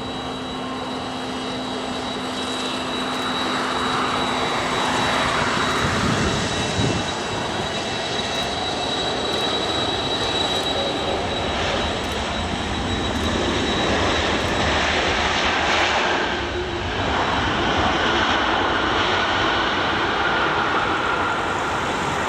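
Jet airliner's engines during landing, growing louder over the first few seconds and then staying loud, with a steady high whine over the rushing noise.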